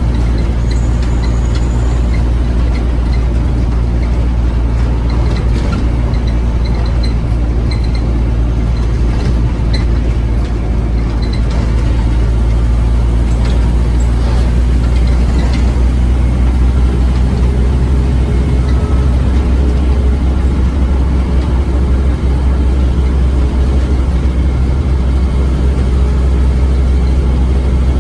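Scania OmniCity bus engine running under way, a loud, steady low drone with its pitch shifting partway through as the bus changes speed or gear. Light rattles and ticks from the bodywork sound over it.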